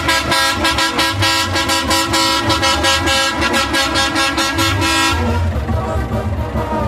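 Vehicle horn sounded in a rapid, even string of short toots at one steady pitch, stopping about five seconds in, over a low engine rumble.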